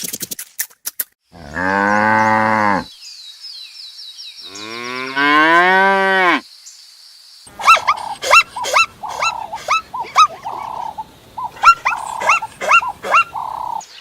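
A cow mooing twice, two long drawn-out moos a couple of seconds apart. Then a quick run of short chirping calls.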